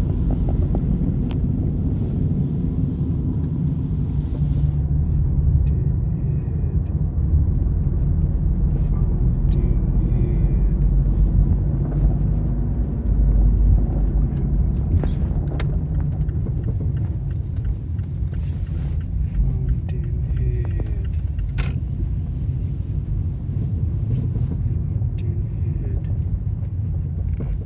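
A boat motor running steadily with a low rumble, and a few light clicks.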